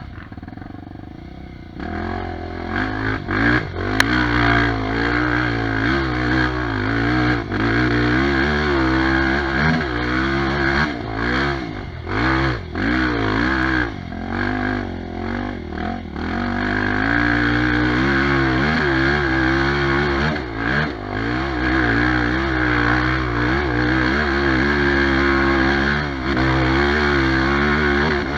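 Trail motorcycle engine running hard, its revs rising and falling continuously as the throttle is worked under load. It is quieter for about the first two seconds and then loud, with one sharp click about four seconds in.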